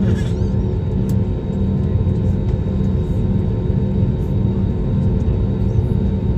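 Airliner engines heard inside the passenger cabin: a steady drone and low rumble with a few constant tones, unchanging throughout.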